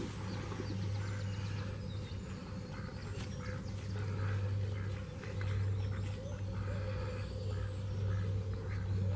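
Ducks quacking repeatedly, short calls one after another, over a steady low hum.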